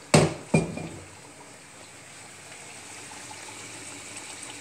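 Two sharp knocks about half a second apart, the second with a short ring, then tuna steaks sizzling steadily in hot olive oil in a frying pan, with fine crackling.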